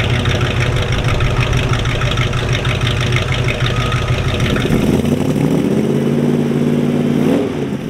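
Hot-rod V8 engine idling with a steady, pulsing rumble. About five seconds in, an engine note climbs slightly in pitch, holds steady, then cuts off suddenly near the end.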